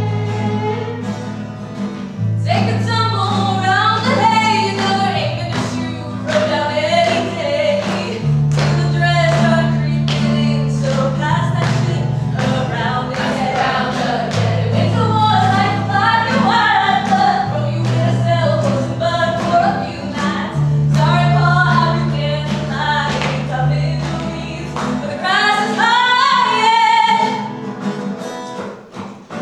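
A song performed live: voices singing a melody over instrumental accompaniment, with a bass line that moves to a new note every two to three seconds and a steady rhythmic pulse. The bass drops out about four seconds before the end.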